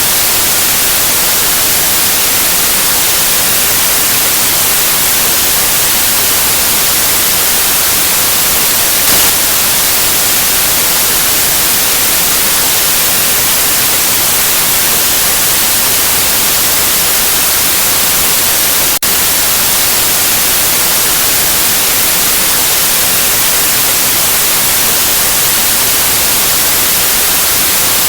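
Steady, loud white noise: an even electronic hiss across all pitches, strongest in the highs, with one momentary dip about two-thirds of the way through.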